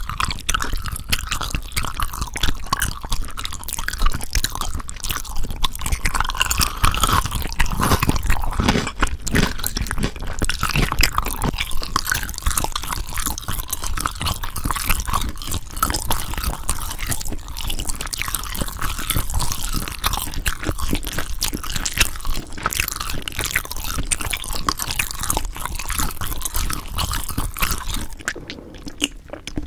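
Close-miked crunchy eating: dense, crackling bites and chewing for most of the time, getting quieter near the end.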